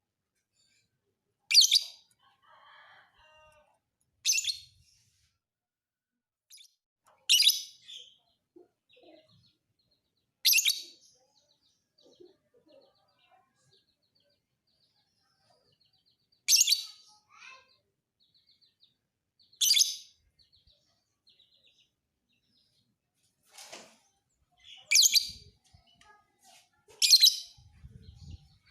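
Lovebird singing: eight loud, short, sharp chirps a few seconds apart, with faint twittering between them.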